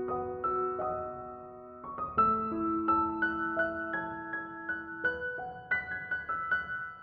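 Slow, soft piano music: single notes and chords struck a few at a time and left ringing.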